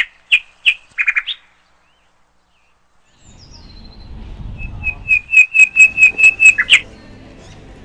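Small bird chirping: a few short chirps at the start, then after a pause a rapid run of sharp repeated chirps, about five a second, ending with a louder one. From about three seconds in, the chirps sit over a low outdoor rumble.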